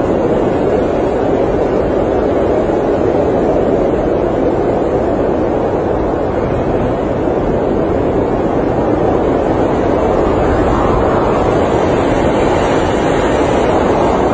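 Steady blizzard wind heard from inside an RV: an even, unbroken noise weighted toward the low-middle range.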